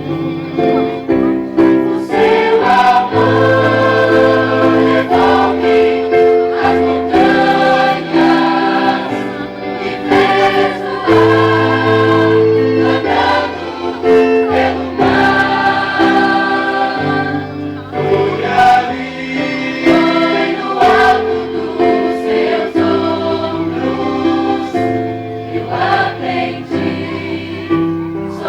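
Choir singing held chords in harmony, the notes changing every second or two over a low bass line.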